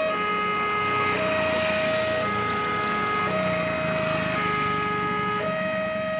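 Railroad level-crossing warning alarm sounding: an electronic two-note tone alternating high and low about once a second over a steady higher tone. A broad rushing noise swells and fades through the middle.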